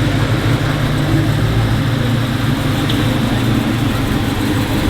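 Car engine idling steadily, with an even low note that holds without revving.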